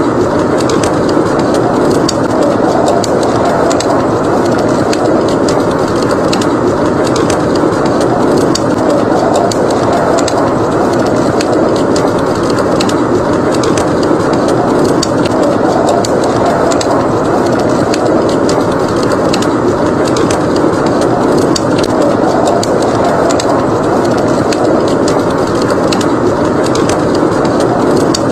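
Wood fire crackling in a fireplace, many small sharp pops scattered throughout, over a steady rushing blizzard wind.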